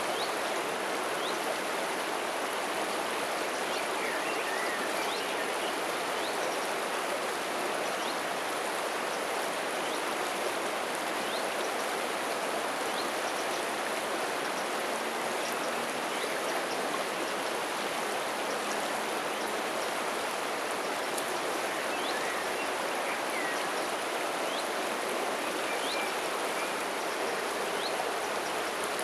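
River water flowing and rippling in a steady rush, with faint, short, high chirps here and there.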